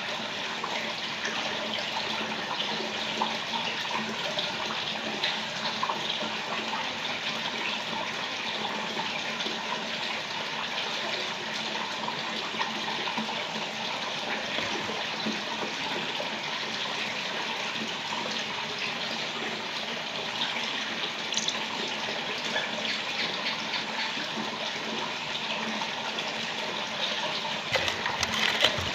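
Steady running water with small splashing crackles throughout.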